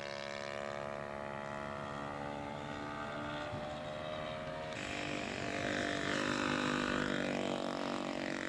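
Radio-controlled Extra 300 model aircraft's engine running at high throttle as it takes off and flies. About five seconds in it gets louder and brighter, its tone sweeping up and down as the plane passes.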